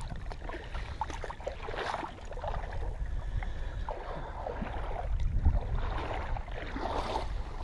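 Kayak paddle strokes: water splashing and dripping off the blades in repeated, irregular strokes, over a low rumble of wind on the microphone.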